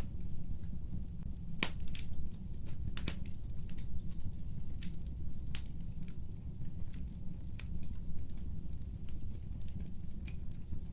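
Fire crackling in a fireplace: scattered sharp pops and snaps, the loudest about two and three seconds in, over a steady low rumble of the flames.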